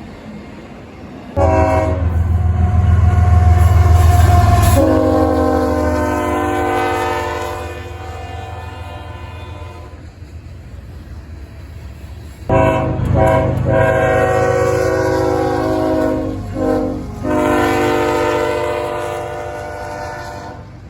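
Freight locomotive air horn blowing as a diesel-hauled double-stack train passes, over the engine's heavy rumble. There is a long blast whose pitch drops about five seconds in as the locomotive goes by. After a brief lull the horn sounds again, with two short breaks near the end and a final fading blast.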